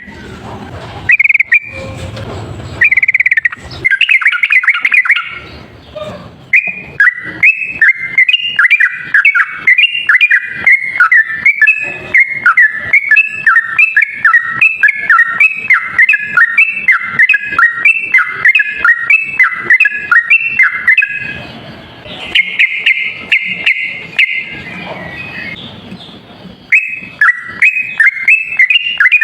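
Yellow-vented bulbul (trucukan) singing a rapid, chattering run of alternating notes, with one long unbroken stretch in the middle and shorter bursts before and after. This is the bird's long, continuous 'ropel' song, used as a lure call.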